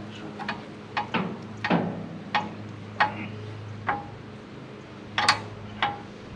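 A series of sharp metallic clicks and clanks, about ten in irregular succession, each with a short ring, over a faint steady low hum.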